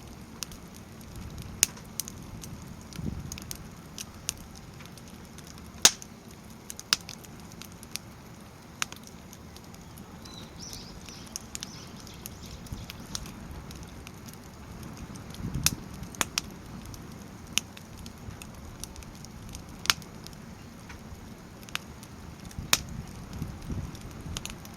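Crib-stacked firewood burning in a Snow Peak fire pit, crackling with scattered sharp pops every second or two, the loudest about six seconds in.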